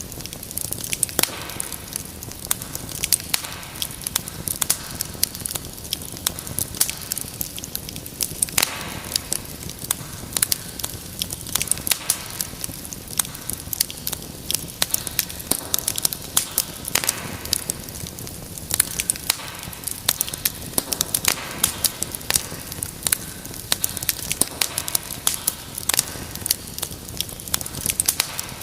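Wood fire crackling: dense, irregular sharp pops and snaps over a soft steady rush of flame.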